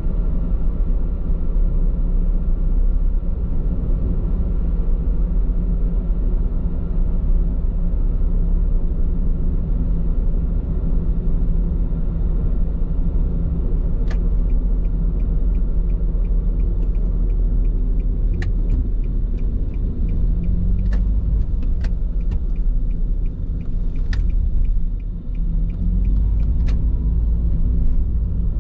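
Steady low road and tyre rumble inside a moving car's cabin on Bridgestone Regno tyres. Over the second half a faint regular ticking comes in, about two ticks a second, with a few sharper single clicks.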